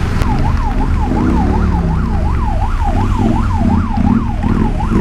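Emergency vehicle siren in a fast rising-and-falling yelp, about two sweeps a second, over a steady low rumble.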